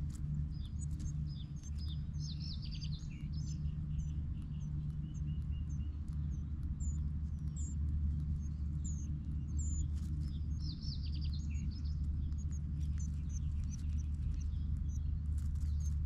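Small birds chirping and twittering in short, high, quick calls throughout, over a steady low hum.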